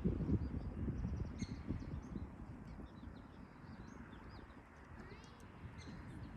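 Scattered short, high chirping calls, with a quick run of calls about five seconds in, over a low rumbling noise that is loudest in the first second.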